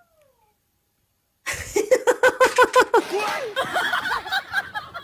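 A moment of near silence, then about a second and a half in, a person breaks into loud laughter in a quick, even run of 'ha-ha-ha', which trails into more laughing mixed with voices.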